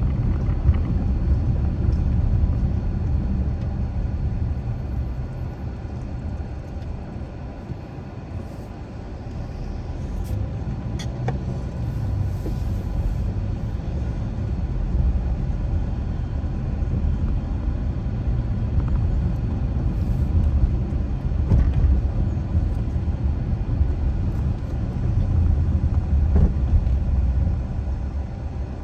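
A car driving along a street: a low, steady rumble of tyres and engine that eases off about a third of the way through and then builds again.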